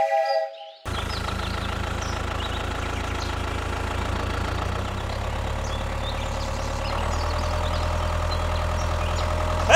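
Small engine of a DIY mini tractor or bulldozer idling steadily with a deep, even rumble, getting a little louder about seven seconds in. A horn-like tone sounds briefly at the very start.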